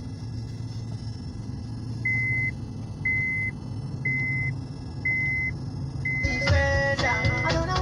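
Steady low rumble of street traffic, with a high electronic beep sounding five times, about once a second, from about two seconds in. Music starts near the end.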